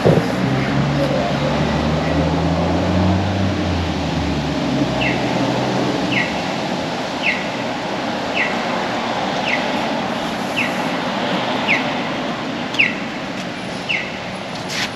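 Street traffic: a vehicle engine passes during the first few seconds. Then a short, falling chirp repeats about once a second for nine or ten seconds.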